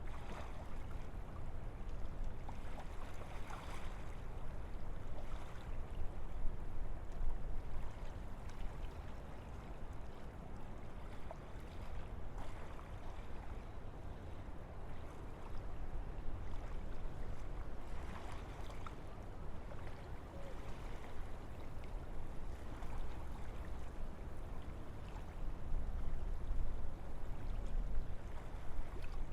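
Wind blowing through forest trees: a steady rushing noise that swells briefly a few times.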